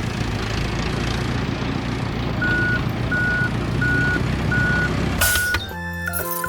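Truck engine running with a reversing alarm beeping five times at an even pace, each beep short and high-pitched. Both stop abruptly near the end, where light music begins.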